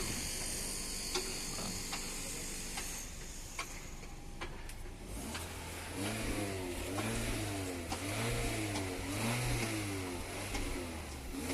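The 2008 Hyundai Tucson's engine being revved repeatedly: after a few seconds of quieter running, about halfway in, it rises and falls in pitch about once a second, five times or so.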